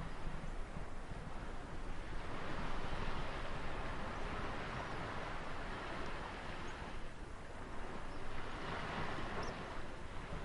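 Ocean waves washing onto a shore in a continuous surf, swelling and fading every few seconds over a steady low rumble.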